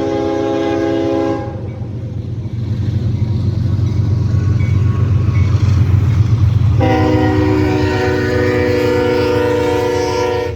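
Locomotive horn sounding a chord of several notes: one blast ends about a second in, and a second long blast of about four seconds starts around seven seconds in. Beneath it runs a steady low rumble from the passing locomotive, swelling between the two blasts.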